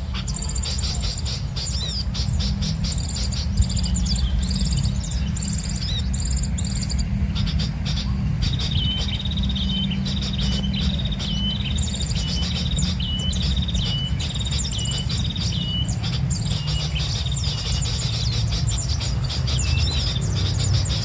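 Small birds chirping in quick, repeated calls, at times settling into a regular run of short, evenly spaced notes, over a steady low rumble.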